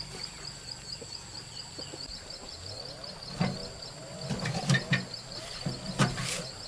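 An insect chirping steadily, about four high pulses a second. About halfway through, a series of sharp knocks and clinks begins, like metal parts or hand tools being handled.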